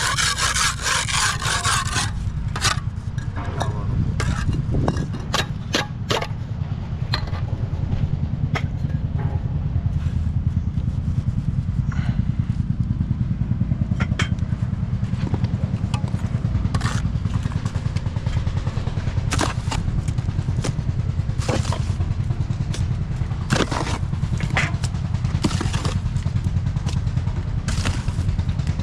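An engine runs steadily with a low rumble throughout, under scattered sharp knocks and clanks. A harsh scraping sound fills the first couple of seconds.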